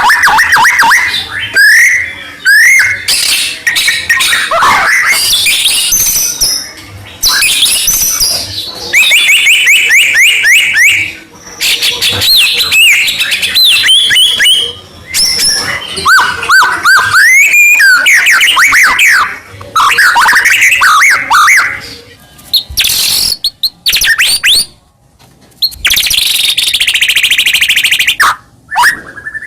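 White-rumped shama (murai batu) singing loudly, a long varied song of clear whistles, fast trills and quick sweeping notes delivered in rapid phrases with short pauses between them.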